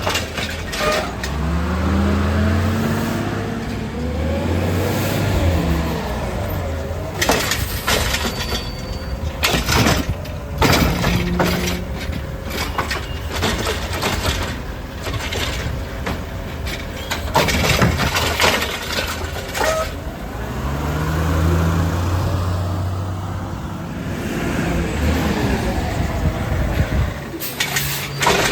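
Crane Carrier (CCC) garbage truck with a Heil Rapid Rail automated arm picking up and dumping carts, twice: the engine revs up and settles as it drives the hydraulics, followed by bangs and clatter of the cart being shaken out over the hopper and set back down.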